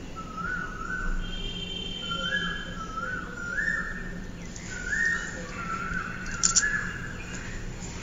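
A bird whistling a short two-note call over and over, each call stepping up in pitch, over a steady low hum. Fainter, higher chirps come in about a second in, and there is a sharp click about six and a half seconds in.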